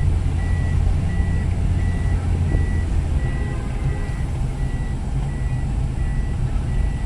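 A truck's reversing alarm beeping steadily, about one and a half beeps a second, over the low rumble of heavy truck engines running in stalled traffic.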